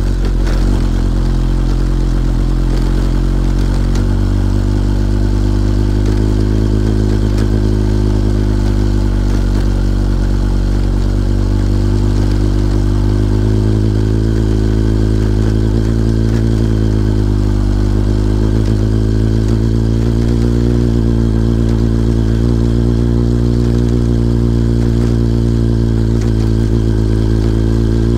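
Kawasaki ZRX1100's inline-four engine pulling at low, fairly steady revs up a steep grade, its pitch wavering slightly with the throttle.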